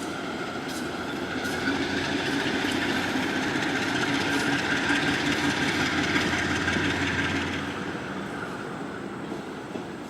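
Freight train rolling past, with a steady rumble, wheel clicking and a held high tone over it. It grows louder about two seconds in and fades away near the end.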